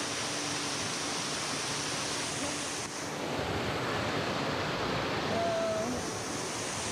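Waterfall rushing steadily, falling water heard up close. About three seconds in the rush grows a little louder and duller.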